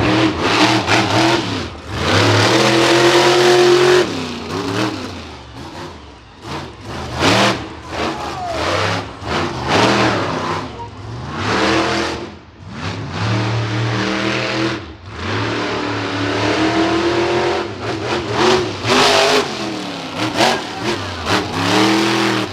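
Monster truck engine revving hard in repeated bursts. The pitch climbs and falls with each push of the throttle, and the loudness surges and dips over and over.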